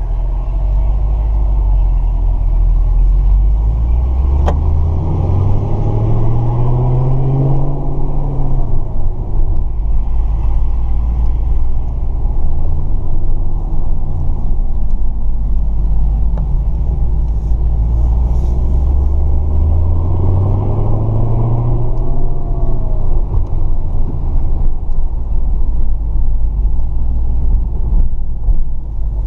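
Supercharged 6.2 L LSA V8 of a 2012 Chevrolet Camaro ZL1, heard from inside the cabin, giving a deep rumble while driving. The revs climb for several seconds and drop back twice: once early on under acceleration, and again later.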